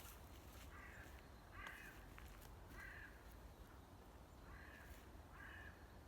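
A crow cawing faintly: five short caws, three and then two after a short pause.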